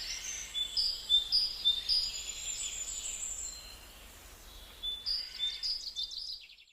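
Birds chirping in short, high notes repeated about twice a second, with quick trills about five seconds in; the sound cuts off suddenly at the end.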